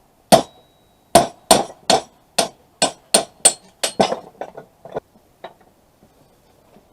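A blacksmith's hammer striking steel on an anvil, about a dozen ringing blows in a quick, slightly uneven rhythm that grow lighter and stop about five seconds in.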